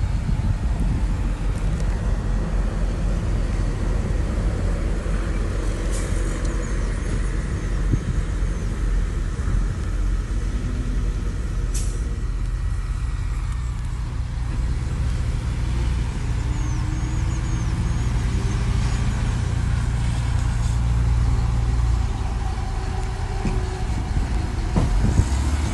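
Diesel engine of heavy earthmoving equipment running steadily under work, a low drone throughout, with a couple of sharp clicks.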